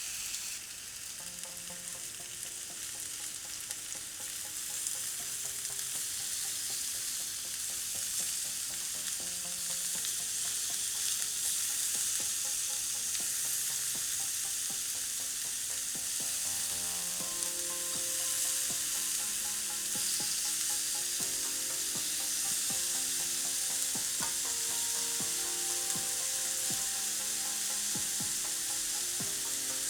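Chicken thigh pieces sizzling steadily in a frying pan: a continuous hiss of fat and juices that grows a little louder over the first ten seconds or so.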